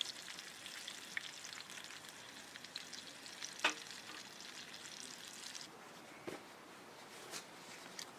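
Food frying: a dense sizzling crackle with many small pops and one louder pop midway. About two-thirds of the way through the sizzle thins out, leaving only a few scattered pops.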